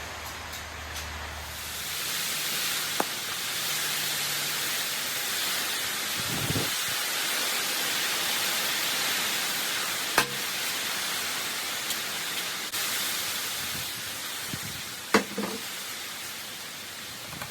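Degreaser spraying in a steady hiss, with a few sharp clicks and knocks in between.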